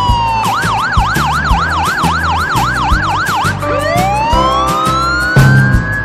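A cartoon siren sound effect wailing rapidly up and down, about four cycles a second, then switching to one slow rising wail. Under it plays background music with a steady beat.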